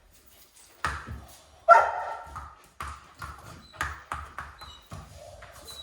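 A dog barking repeatedly, about eight short sharp barks, the loudest a little under two seconds in.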